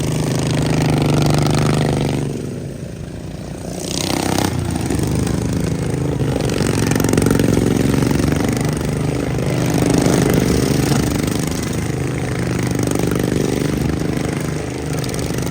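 Racing riding lawn mower engines running and revving, their pitch rising and falling, with a brief drop in loudness about two seconds in.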